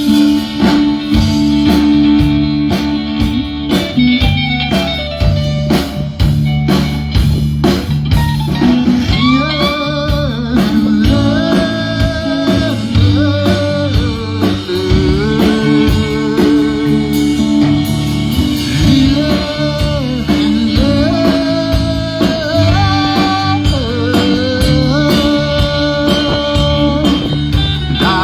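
Live band playing a blues-rock number: a lead guitar line with bent, wavering notes over rhythm guitar and bass.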